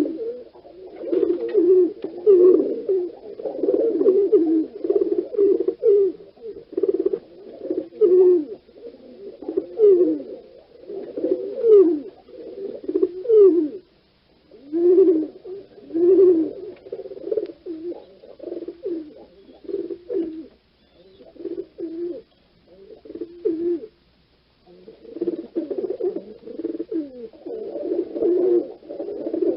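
Several birds giving low-pitched calls that overlap almost continuously, with short pauses twice, about midway and about two-thirds of the way through.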